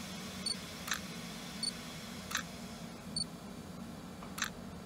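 Electric regional train creeping into a station: a steady low hum with about six short, high squeaks and clicks spaced a second or so apart.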